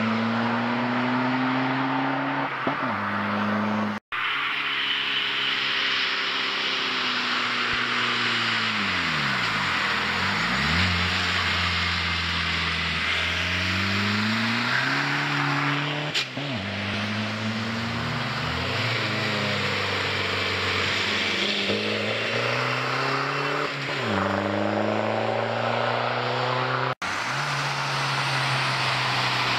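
Volkswagen TDI diesel engine breathing through an Edel01 turbo-back exhaust, its note rising and falling in pitch again and again as it is revved or accelerated. The sound cuts out very briefly twice, about four seconds in and near the end.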